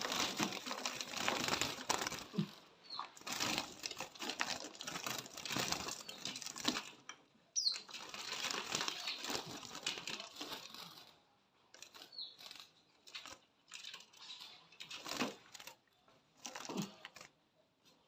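A small bird fluttering and scrabbling in a confined space, in long rustling bouts that break into shorter bursts about two-thirds of the way through, with a few brief high chirps.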